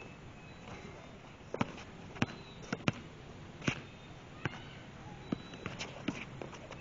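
A basketball bouncing on a hard court: a series of sharp, irregularly spaced thuds, about eight in all.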